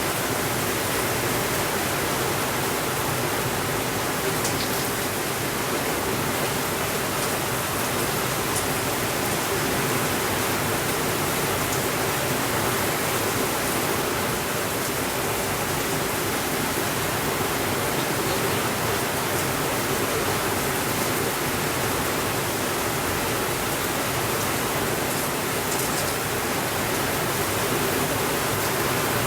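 Steady rainfall, a dense even hiss with a few faint ticks here and there.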